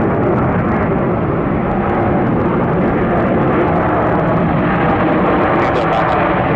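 Jet airliner's engines making a loud, steady rush of noise as the aircraft passes close by on the runway.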